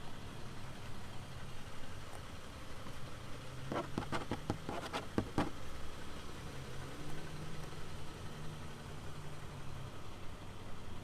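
The 2020 Toyota Sienna's 3.5-litre V6 idling with a steady low hum, with a quick run of about eight sharp clicks a little under four seconds in.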